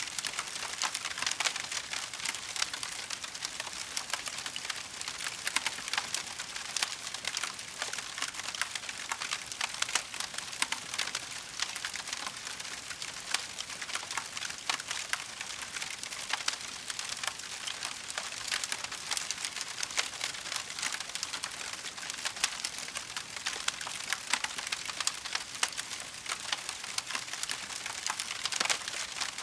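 Wood fire crackling steadily, a dense stream of small pops and snaps.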